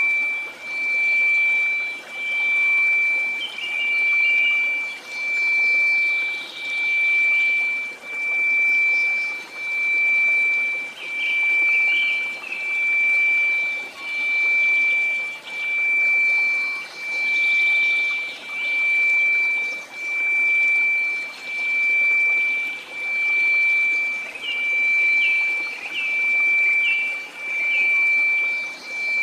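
A steady 2334 Hz sine tone that swells and fades about every second and a half, over faint white noise. Brief chirps and trickling sounds come and go above it, thickest about four seconds in, around twelve seconds in and near the end.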